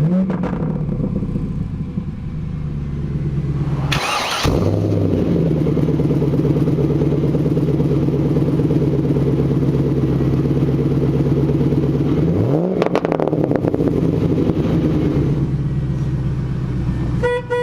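2000 Chevrolet Camaro SS's LS1 5.7-litre V8 idling steadily, its revs blipped up and back down right at the start and again about twelve and a half seconds in. A brief loud burst of noise about four seconds in.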